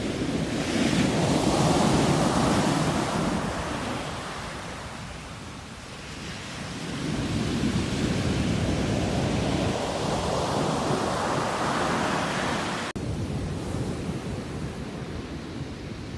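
Sea waves surging in and washing back, a steady surf noise that swells about a second in, falls away, and builds again from about seven seconds. A sudden brief drop-out comes about thirteen seconds in.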